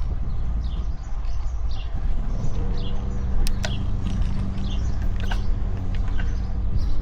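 Wind and road rumble on the microphone of a moving road bike, with birds chirping throughout. From about two and a half seconds in, a steady engine hum from a vehicle joins, and a few sharp ticks sound near the middle.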